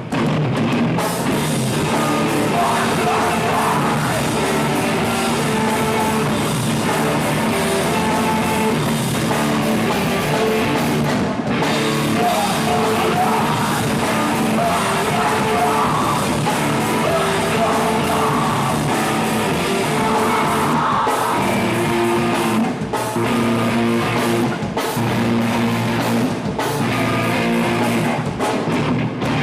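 Live heavy rock band playing loud, with distorted electric guitars, a drum kit and shouted singing. The band stops for a split second several times in the second half.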